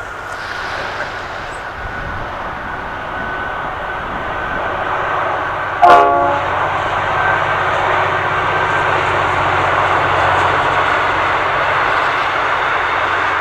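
Diesel express passenger train approaching and passing, its noise growing louder. It gives one short horn blast about six seconds in, then runs on as a steady loud rumble of engine and wheels.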